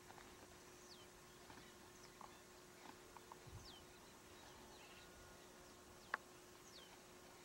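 Faint outdoor ambience with a bird repeating a short, falling whistle every second or two, over a steady low hum and a few soft ticks. A single sharp click about six seconds in.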